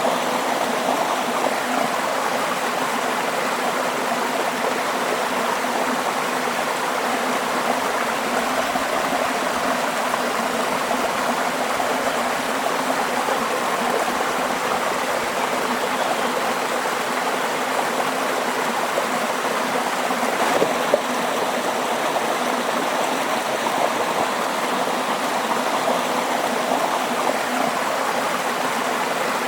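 Running water flowing steadily, an even rushing hiss with no pauses. There is one brief, slightly louder blip about two-thirds of the way through.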